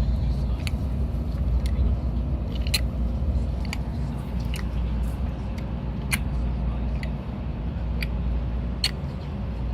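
Baby making short clicking and smacking mouth sounds, about one a second, over the steady low rumble of a Shinkansen passenger cabin.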